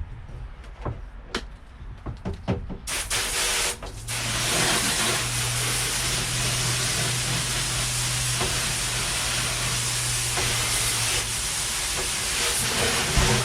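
A few sharp clicks, then from about three seconds in a long, steady spraying hiss. For much of it a low, steady hum runs underneath.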